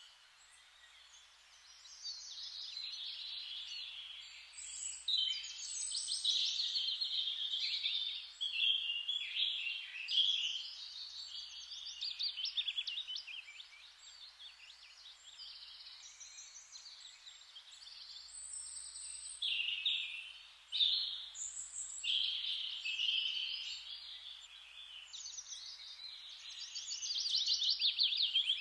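Several songbirds singing and chirping over one another, a near-continuous chorus of high trills and chirps, with a short lull in the first couple of seconds.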